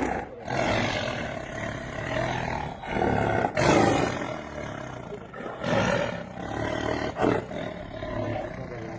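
A big cat roaring several times in a row, with loud, low, drawn-out calls.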